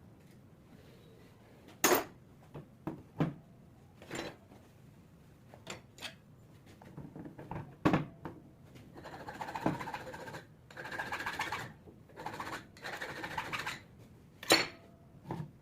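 Metal tools and alternator parts handled on a workbench: sharp clinks and knocks at uneven intervals, with a few seconds of scraping or rubbing in the middle.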